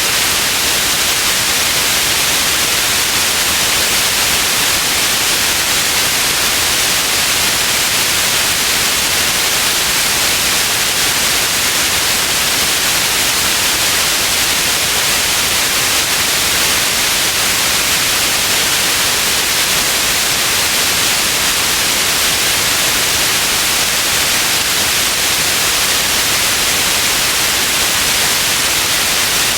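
Steady white noise: an even, unchanging hiss, heaviest in the treble, with no other sound in it.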